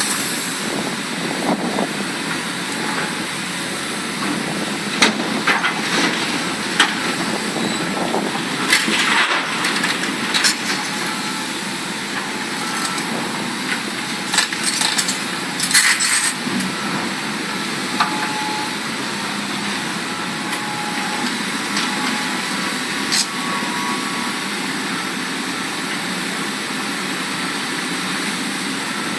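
Large Hitachi Zaxis hydraulic excavator working, its diesel engine and hydraulics running steadily. Irregular sharp knocks and cracks come through it, along with a few brief high tones.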